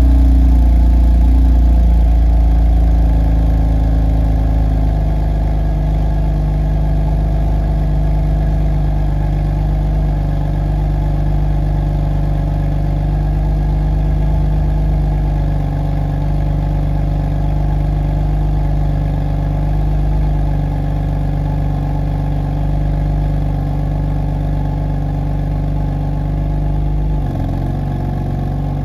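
BMW M3's S55 twin-turbo inline-six idling steadily after a cold start. Its fast idle eases down a little in the first couple of seconds.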